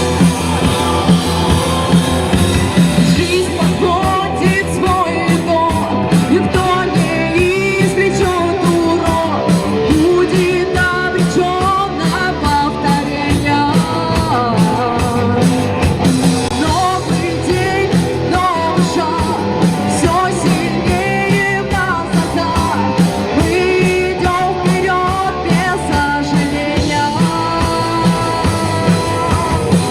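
Rock song with a singer's voice over electric guitar, bass and a steady drum beat.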